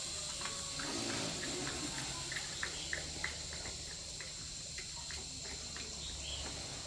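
Steady high insect chirring, with a run of light, irregular clicks and taps in the foreground.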